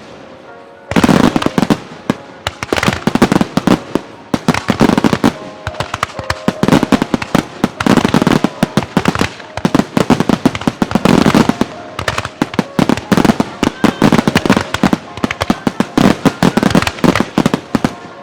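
Aerial fireworks bursting in a rapid, continuous barrage of loud bangs and crackles, many per second, starting about a second in after a brief lull.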